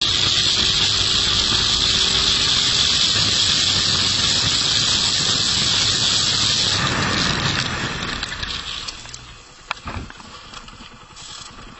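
Motorcycle braking hard: a loud, steady hissing squeal of skidding tyres, which fades away as the bike slows over about two seconds, then a single short knock.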